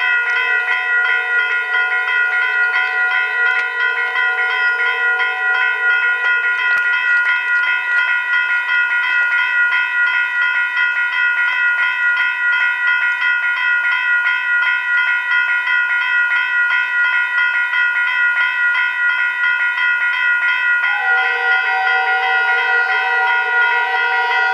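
Train giving a steady high-pitched whine made of several even tones held unbroken, with a lower pair of tones in the first six seconds that drops out and returns near the end.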